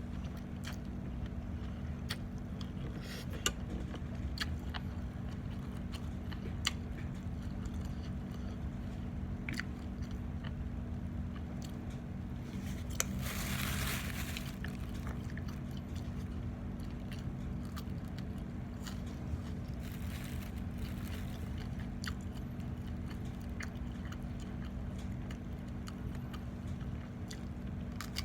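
A person chewing and biting food, Thai instant noodle salad and pork sausage, with scattered small clicks and a louder noisy burst of about a second and a half halfway through. A steady low hum runs underneath.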